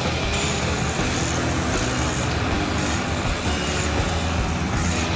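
A motor vehicle's engine running steadily, mixed with a dense, even noise.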